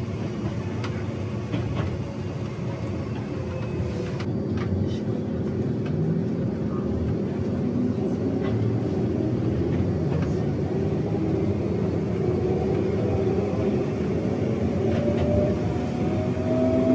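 Enoshima Electric Railway (Enoden) train heard from inside the car: a steady running rumble with a few light clicks, and from about halfway an electric motor whine rising steadily in pitch as the train picks up speed.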